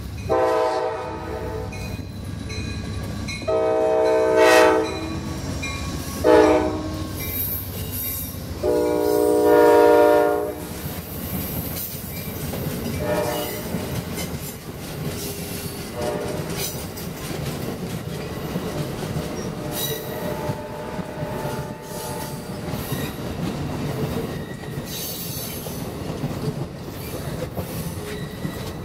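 Locomotive air horn sounding four blasts, long, long, short, long: the standard grade-crossing signal. The train then rolls past with a steady rumble of wheels on rail, and short high wheel squeals now and then.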